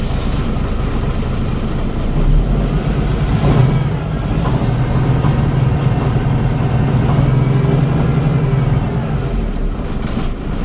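1974 Kenworth W925 log truck's 400 Cummins inline-six diesel running after a start-up; its note rises about two seconds in, holds for several seconds, then eases back near the end.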